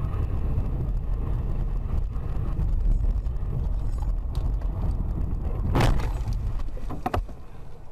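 A car driving, with a steady low rumble of engine and road noise. There is a short louder noise at about six seconds and a couple of sharp clicks around seven seconds.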